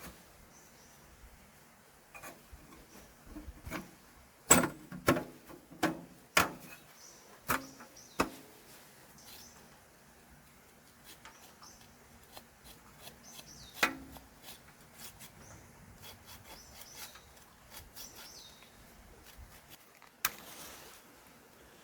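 Scattered sharp knocks and clatter of things being handled, a quick run of them in the first eight seconds and one more near the middle, then a brief rustle near the end, with faint high chirps in the background.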